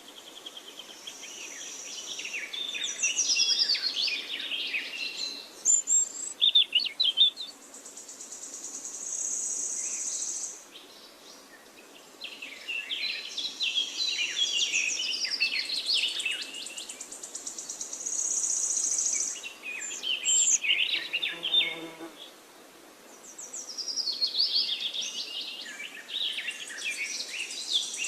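Songbirds singing long, rapid, warbling phrases, one burst every ten seconds or so, with a steady high-pitched insect buzz that starts and stops between them.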